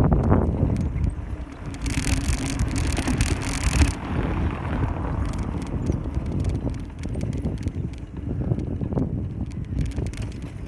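Riding noise from a bicycle on town streets: wind buffeting the microphone over tyre and road rumble, with a louder hiss from about two to four seconds in.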